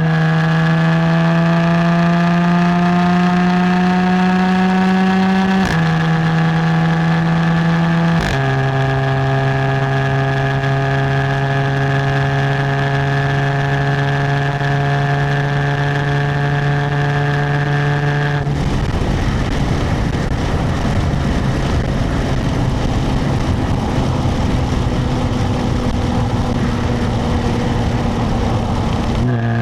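Stock exhaust of a 2017 Jaguar F-Type, heard from the rear number plate while driving: a steady exhaust drone rising slowly under light acceleration, dropping in pitch with upshifts about 6 and 8 seconds in, then holding steady at cruise. About 18 seconds in the exhaust note falls away to a rushing road and wind noise as the car coasts off throttle, and the drone comes back just before the end.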